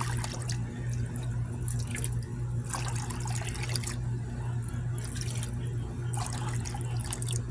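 Rainwater being poured into a plastic 5-gallon bucket, splashing and dripping unevenly, over a steady low hum.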